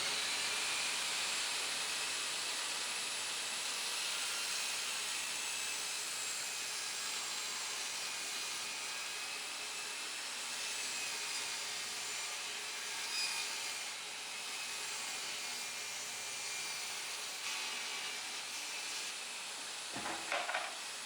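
A workshop machine running steadily, a continuous hiss with a faint high whine and no rhythm of strokes.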